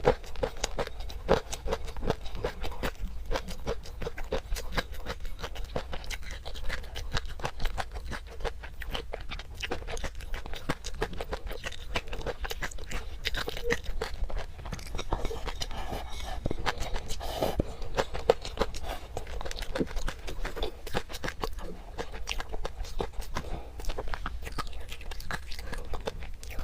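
Close-up chewing and crunching of garlic with peanut sauce: a steady, dense run of small crunches and mouth clicks.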